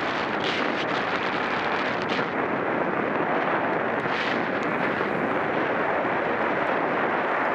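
Steady wind rushing over the microphone of a camera on a racing bicycle at speed, with a few brief hissier gusts.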